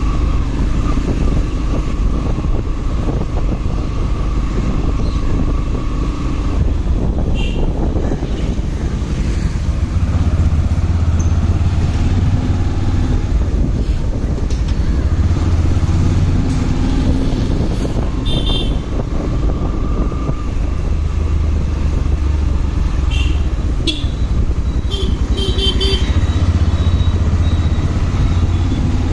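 Motorcycle running steadily while riding in traffic, its engine rumble mixed with road noise. Short horn toots sound a few times: once about a quarter of the way in, again about two-thirds in, and a quick cluster near the end.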